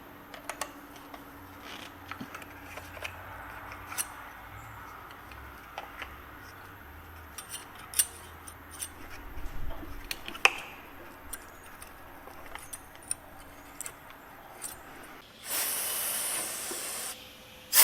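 Small metallic clicks and clinks of tools and parts being handled during repair work. Near the end comes a hiss of spray or air lasting about two seconds.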